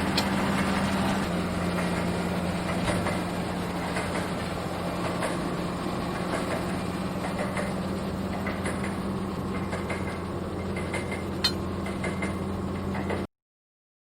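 Heavy diesel engine of rail-laying machinery running steadily at idle, with a few light metallic clicks over it. The sound cuts off suddenly about 13 seconds in.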